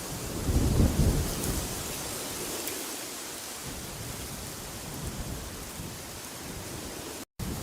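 Steady rushing wind. A strong gust brings a low rumble about half a second in that lasts about a second. The sound drops out to silence for a split second near the end.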